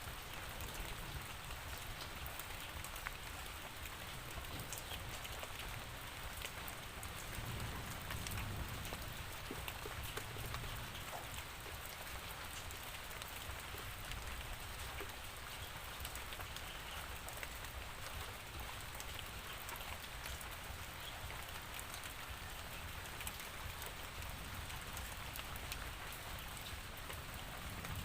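Steady rainfall, with many individual drops ticking sharply on a surface over a continuous hiss and a low rumble underneath.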